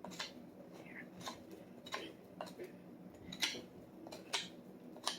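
Knife shaving wood from a wooden hammer handle to straighten it for the head: short, faint, irregular scraping strokes, roughly two a second.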